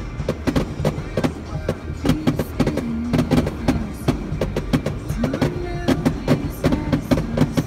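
Fireworks going off in rapid succession, many sharp bangs and crackles, with a melody of music playing along with them.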